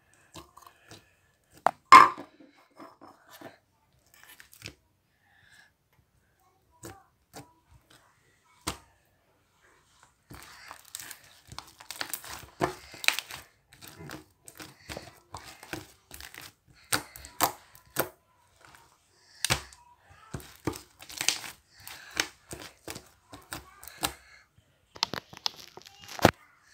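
Slime being squeezed and worked by hand, giving sharp popping and crackling clicks as trapped air bursts. There are a few scattered pops at first, with a loud snap about two seconds in, then a dense, continuous run of pops from about ten seconds in.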